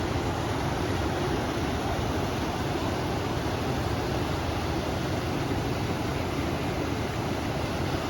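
River water flowing together with wind, making a steady, even rush that never changes.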